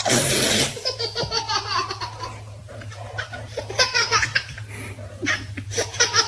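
A baby laughing in repeated bursts of giggles and belly laughs, loudest right at the start.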